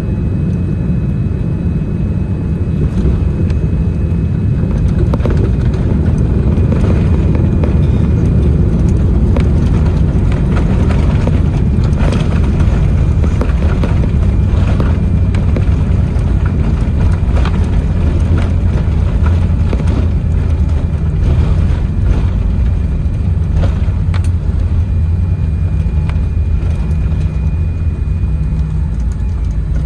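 Cabin noise of a Boeing 787-10 landing: a loud, steady low rumble of engines, airflow and running gear, with scattered rattles and knocks and a faint steady whine.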